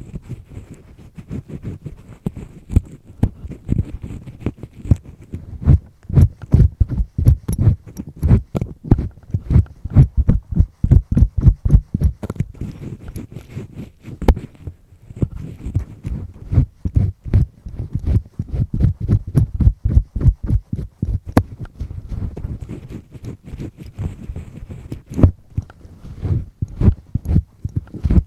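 Double-disc earpick scraping firmly inside an ear canal, close up: rapid rubbing strokes with dull, muffled thuds, pausing briefly about halfway.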